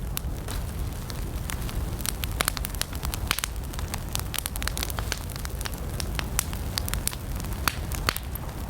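Wood fire burning, with a low steady rumble and many sharp, irregular crackles and pops as the wood burns.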